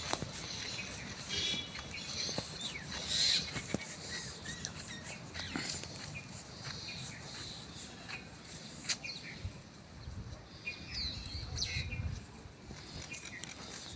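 Birds chirping outdoors in short, scattered calls, with a few sharp clicks in between.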